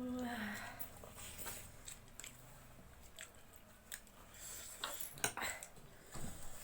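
Close-up eating of spicy instant noodles: chewing, with scattered wet clicks and smacks. It opens with a short hummed voice sound that falls in pitch.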